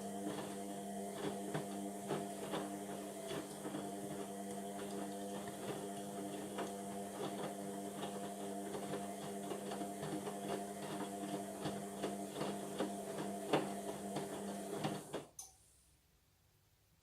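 Indesit washing machine running its wash cycle: a steady motor hum with irregular clicks and knocks as the drum turns. The sound cuts off suddenly about fifteen seconds in.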